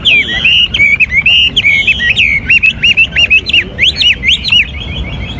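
Chinese hwamei singing a loud, varied song of whistled phrases that turns into a fast run of sharp rising-and-falling notes, then eases off just before the end.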